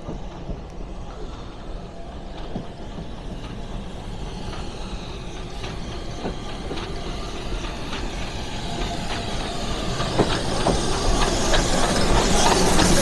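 A train running on the rails, growing steadily louder, with occasional sharp clicks of the wheels.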